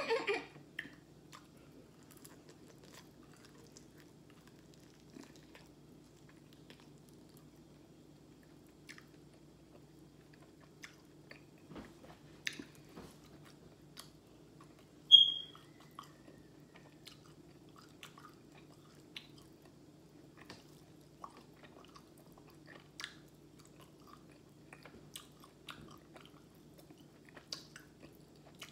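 Close-miked chewing of fried chicken, with scattered small clicks and crunches as meat is picked from the bone by hand, over a steady low hum. A brief, sharp, high-pitched squeak about halfway through.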